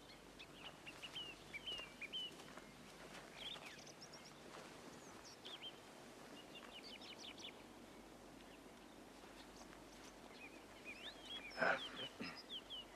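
Small birds chirping and singing faintly and on and off over a quiet outdoor hush. Near the end comes one brief, louder sound.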